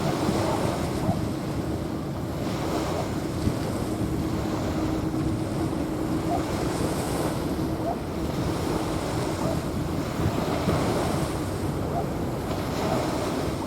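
Small waves washing onto a sandy beach, with wind buffeting the microphone. A faint steady low hum runs underneath and fades out about ten seconds in.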